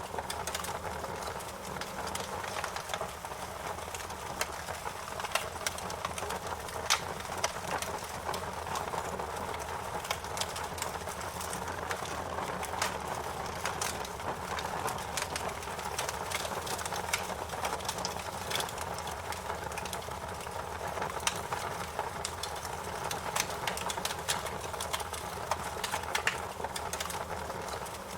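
Wood fire crackling in a fireplace: a steady rushing hiss of flames with frequent, irregular sharp pops and snaps, a few louder than the rest, over a low rumble.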